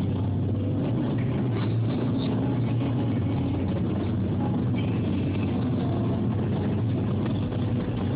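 Steady engine and road noise inside a moving car's cabin, an even low hum without change.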